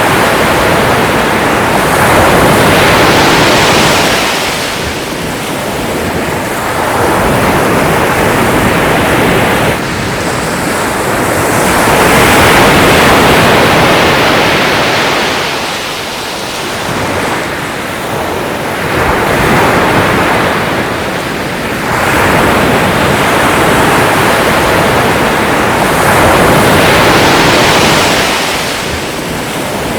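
Sea waves breaking and washing in, a steady rush of surf that swells and falls back about every four to five seconds.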